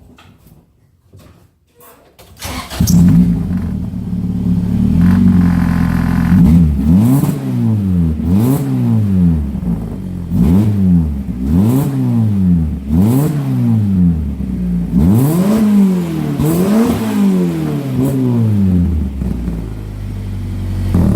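Honda's engine starting about three seconds in, idling briefly, then being revved again and again, its pitch climbing and dropping about nine times, with a newly added mod meant to make it sound better.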